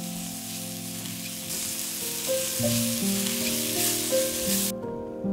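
Sliced mushrooms and garlic sizzling in a hot frying pan as they are stirred with a spatula, the sizzle stopping abruptly near the end. Instrumental background music plays underneath.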